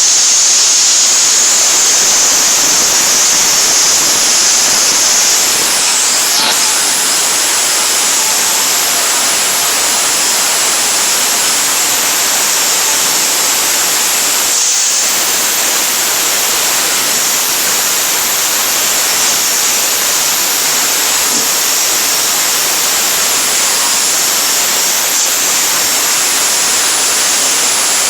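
A power grinder grinding rust off a rusty steel pickup bed: a steady, loud, harsh hiss with a faint high motor whine above it, easing briefly about halfway through.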